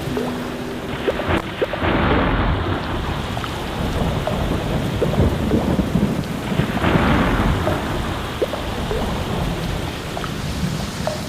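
Steady rain falling, with low rolling thunder underneath that swells about two seconds in and again around seven seconds.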